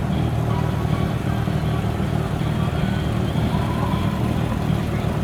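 Car engine running steadily at idle, with no revving, and faint voices behind it.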